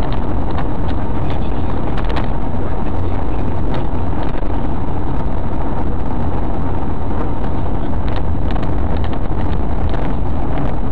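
Car driving: a loud, steady rumble of engine and road noise, with a few light clicks.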